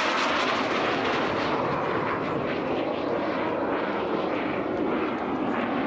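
Jet Provost T5 jet trainer in display flight, its Viper turbojet giving a steady rushing noise with small swells as it passes.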